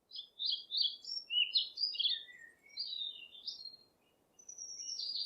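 Bird song: a run of quick warbling, chirping phrases with a short pause about four seconds in before it starts again.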